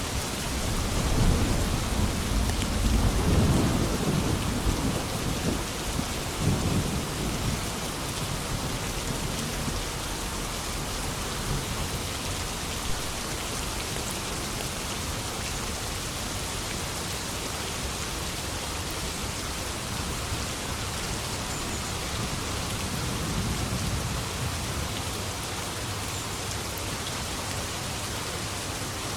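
Steady heavy rain with a long roll of thunder rumbling in the first several seconds and fading out, then only rain, with a faint distant rumble about three quarters of the way through.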